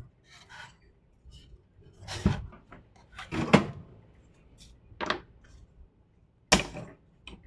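Small tools and parts being handled on a workbench: five sharp knocks and clicks with faint rubbing between them.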